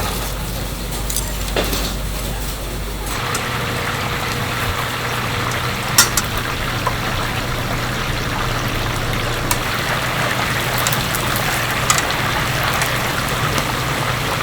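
Chicken deep-frying in hot oil, a steady sizzle and crackle, with a low machine hum for the first three seconds and a few sharp clicks.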